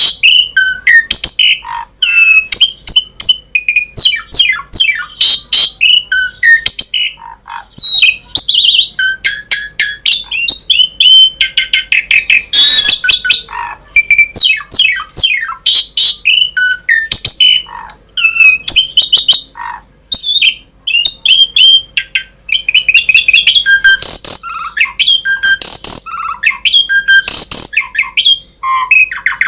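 Asian pied starling (jalak suren) in full song: a dense, varied run of whistles, gliding chirps and harsh clicking notes, with hardly a pause.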